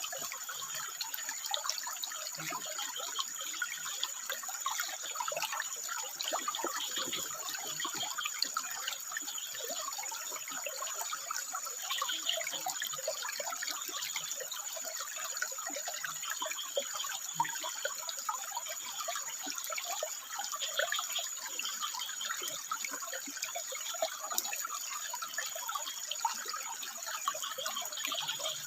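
Water trickling and splashing steadily over rocks, a dense even babble.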